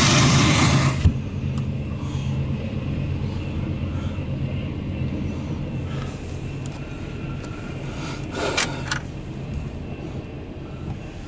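Empty autorack freight train passing, heard from inside a vehicle: loud rushing noise for the first second, then a thump, after which the train's rumble turns muffled and steady with a low hum.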